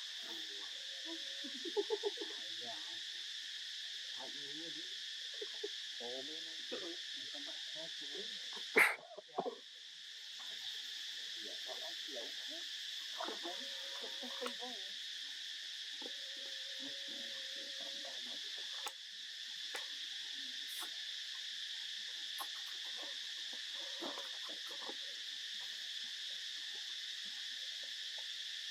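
Steady, high-pitched chorus of insects that goes on throughout, with faint low sounds coming and going beneath it. A single sharp click about nine seconds in.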